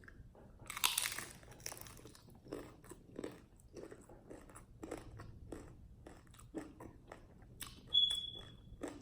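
A crunchy bite into a fried Burger King taco shell about a second in, followed by steady close-up chewing, about two chews a second. A brief high tone sounds near the end.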